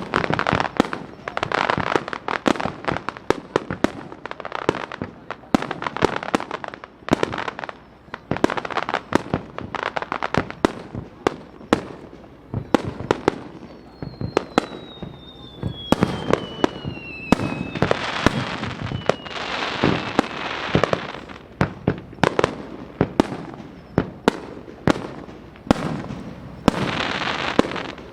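Fireworks display: rapid aerial shell bursts and bangs one after another, with stretches of crackling. About halfway through, a thin whistle falls slowly in pitch over several seconds.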